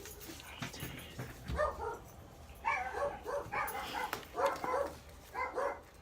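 A dog barking repeatedly in short, quick barks, several a second, starting about a second and a half in.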